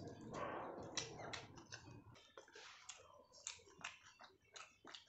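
Close-up eating sounds: chewing with many short wet mouth clicks and smacks, denser in the first two seconds and then coming as separate clicks.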